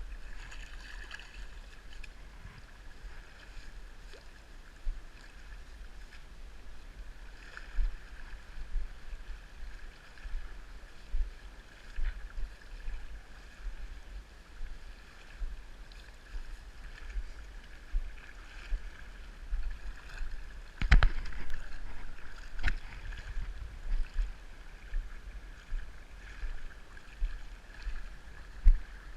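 Steady rush of flowing river water with irregular low thumps, like wind or handling on the microphone, and two sharp knocks near the end.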